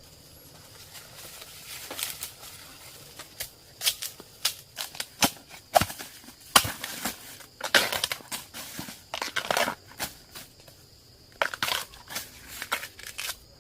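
Irregular crunching and crackling, a series of sharp handling noises that come thickest in the second half.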